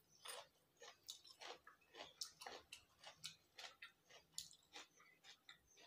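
Faint close-up eating sounds: soft chewing and wet lip smacks over a mouthful of khichdi, a quick irregular run of small clicks about three a second.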